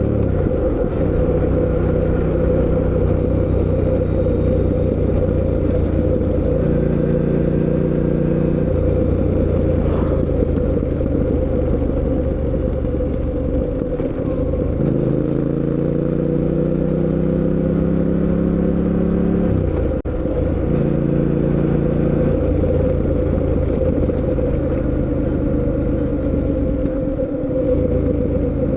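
2024 Fantic Caballero 700 Scrambler's parallel-twin engine pulling on the road. Its pitch climbs and drops several times as it accelerates and changes gear, with a brief dip in sound near the end.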